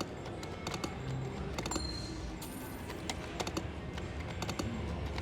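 Irregular rapid clicks and ticks from a video slot machine being played. A short high electronic tone sounds about two seconds in, all over a steady casino background hum.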